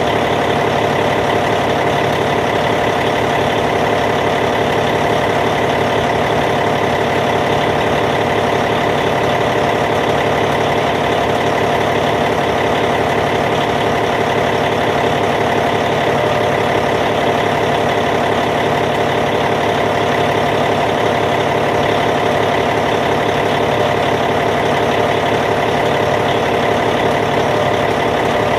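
Caterpillar C15 diesel engine of a Cat D8T bulldozer idling steadily, with an even, unchanging running note.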